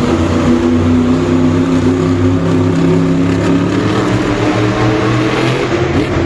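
Loud monster truck engine revving up and holding a steady high pitch for several seconds, rising again briefly near the end.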